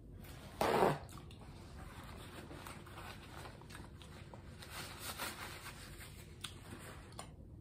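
Close-up eating sounds: chewing, and a paper napkin rustling and crinkling as it is rubbed over the mouth. A short, loud, noisy burst comes about half a second in.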